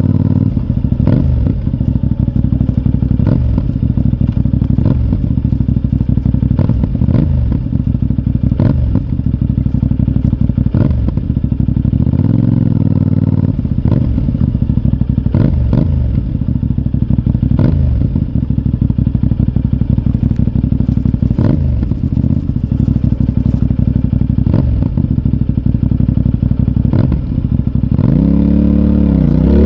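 CFMoto 450NK parallel-twin engine idling, with a short sharp beat roughly every second. A brief rev about twelve seconds in, and a stronger rev rising and falling near the end.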